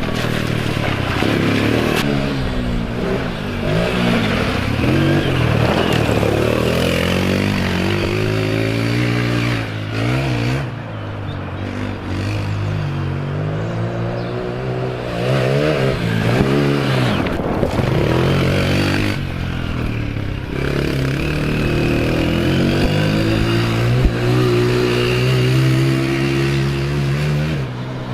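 Honda TRX90 quad's small four-stroke single engine revving up and easing off again and again as it is ridden, its pitch climbing and falling, with short lulls about ten and twenty seconds in.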